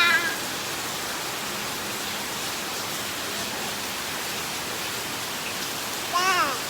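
Heavy rain falling steadily, an even hiss throughout. A high-pitched voice calls out briefly near the end.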